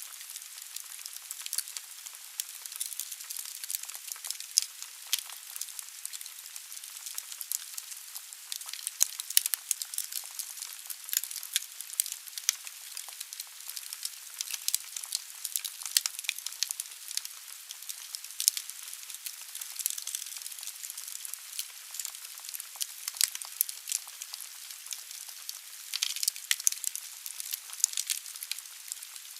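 Wood fire burning in a fireplace: a steady hiss with frequent sharp, irregular crackles and pops from the burning logs.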